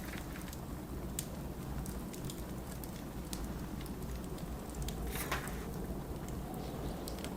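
Fireplace crackling with scattered sharp pops over a steady low blizzard wind. A brief brighter crackle or rustle comes a little after five seconds.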